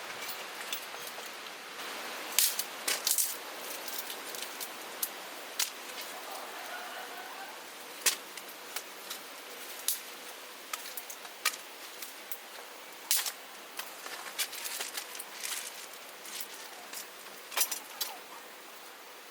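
Irregular sharp clicks and knocks, a dozen or more, some in quick pairs, over a steady background hiss.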